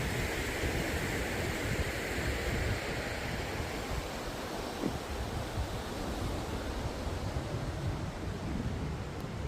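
Steady wind rushing over the microphone, with the low rumble of bicycle tyres rolling along the trail.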